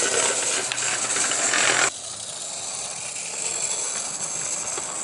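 Mechanical running noise from an OO gauge model steam locomotive, a Mainline Railways 2251 Class 0-6-0, with a hiss over it. The noise cuts off abruptly about two seconds in, leaving a quieter hiss.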